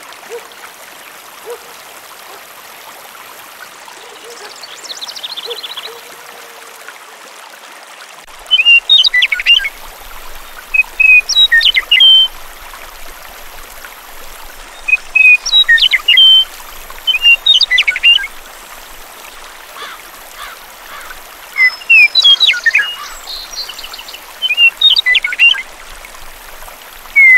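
Songbirds singing short, loud chirping phrases every couple of seconds, starting about eight seconds in, over a steady hiss of running water.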